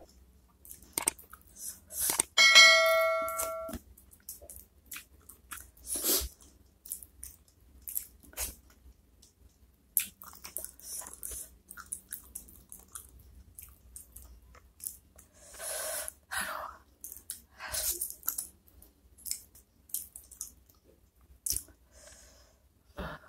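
Close-up mouth sounds of eating soft chicken feet in chili sauce: chewing, sucking and wet lip smacks, in short irregular bursts. A ringing bell-like chime sounds about two and a half seconds in and lasts about a second.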